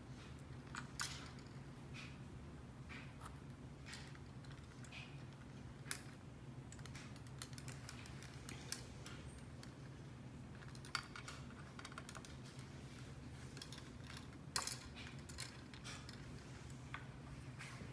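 Irregular light clicks and taps, a few louder sharp ones, as an Indian ringneck parrot's beak works at and knocks small objects, over a steady low hum.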